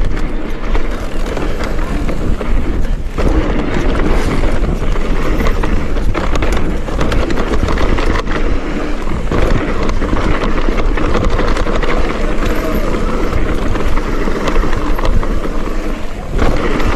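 Mountain bike riding a trail: wind rushing over the camera microphone with a steady low rumble, and the tyres and bike rattling over the ground. It eases briefly about three seconds in and again near the end.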